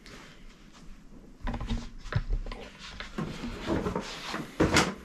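Irregular knocks and rustles of handling noise. They begin about a second and a half in, grow busier, and the loudest knock comes near the end.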